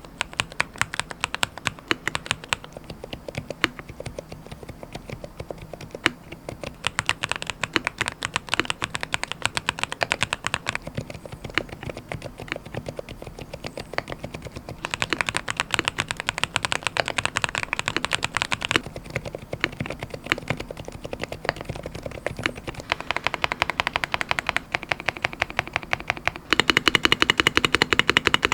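Rapid typing on a keyboard fitted with lubricated low-noise linear switches (Nexus hybrid silent coral), with keys pressed in quick runs; near the end the keystrokes become louder and faster, almost continuous.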